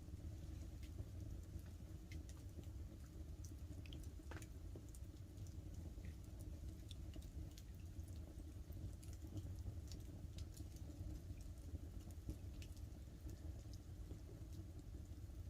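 Wood campfire crackling, with scattered sharp pops at irregular times over a steady low rumble, and light rain pattering on a tarp overhead.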